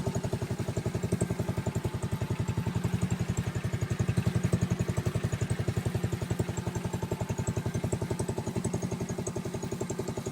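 A machine running steadily with a rapid, even pulse of about a dozen beats a second, engine-like.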